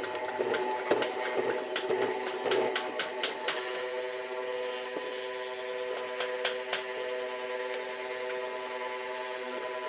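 A workshop power tool running with a steady hum, with a run of sharp clicks and knocks over the first three seconds or so.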